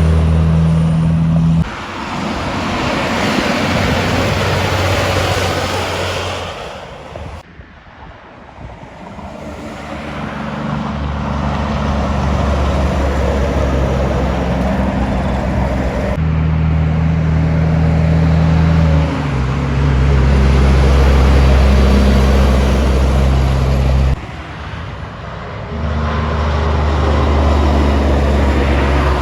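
Heavy diesel trucks on a highway: a deep, steady engine drone with tyre and wind noise that swells and fades as trucks go by. The sound changes abruptly several times along the way.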